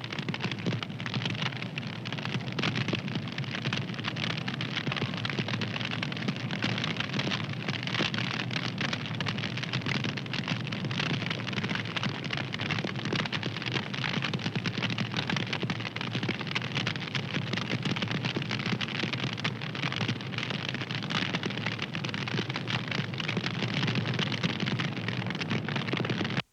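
Fire crackling: a dense, steady stream of small pops and snaps.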